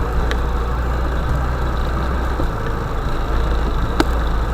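Vehicle engine running with a steady low drone, and a sharp click about four seconds in.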